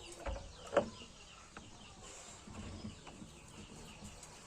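Small birds chirping faintly, with a single sharp knock about a second in.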